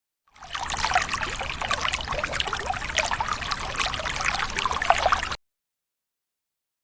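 Water pouring in a steady stream and splashing, fading in a moment after the start and cutting off abruptly near the end.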